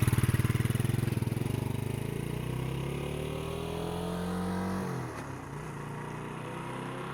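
Motorcycle engine pulling away, its pitch rising for about five seconds, then dropping at a gear change and running steadier.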